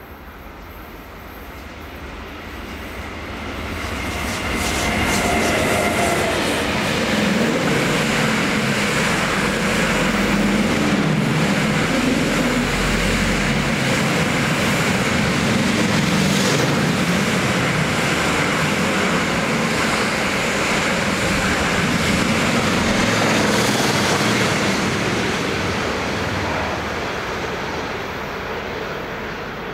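Electric train passing by: the sound swells over the first few seconds, stays loud for about twenty seconds, then fades away near the end.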